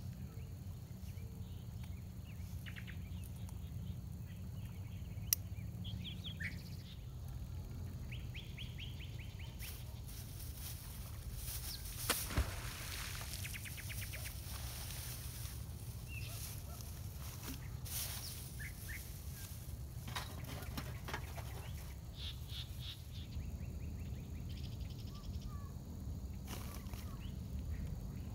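Wild birds chirping and calling in short repeated phrases over a steady low rumble. There are a couple of sharp clicks about twelve seconds in and brief bursts of rustling.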